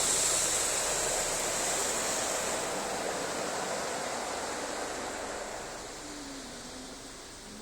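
Rinse water from a Ryko SoftGloss Maxx automatic car wash spraying over a car, heard from inside the car as a steady hiss that slowly fades.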